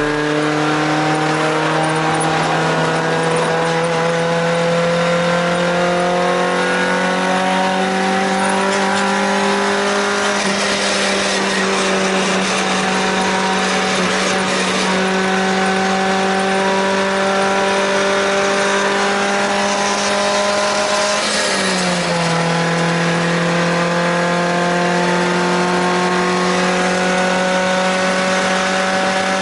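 Toyota Sprinter Trueno AE86 engine running at high revs under load. Its pitch climbs slowly and steadily, drops sharply once about 21 seconds in, as at a gear change or a lift of the throttle, then climbs steadily again.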